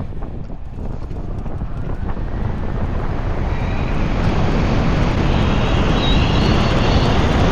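Wind rushing over the microphone of a 96 V electric motorcycle as it picks up speed, growing steadily louder, with a faint rising whine from the electric drive.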